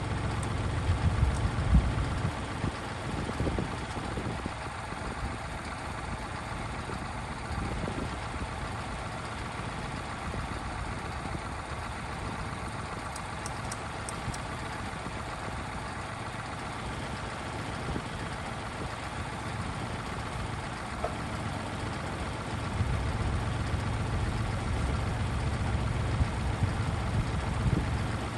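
Kubota tractor's diesel engine running steadily, louder in the first couple of seconds and again over the last five or so, quieter in between.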